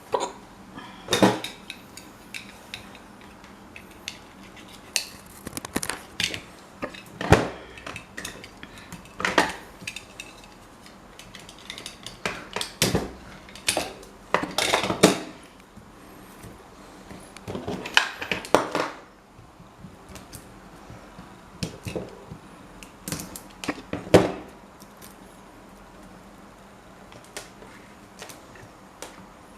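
Metal parts being handled and knocked together during a restoration job: irregular clinks and taps with a few short scrapes, about a second long.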